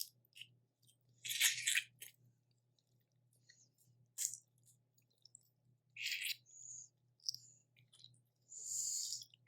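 Close-miked eating of boiled crawfish and crab: short, separate crunches and crackles of shells being cracked and peeled, with chewing, the longest near the end.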